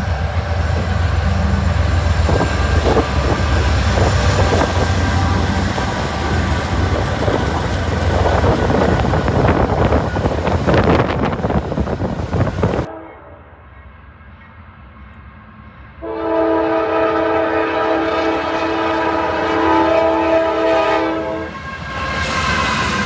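Train passing close with heavy rumble and wheel clatter, cut off suddenly. Then a locomotive air horn sounds one long blast of several notes at once, about five seconds long, and a horn sounds again near the end.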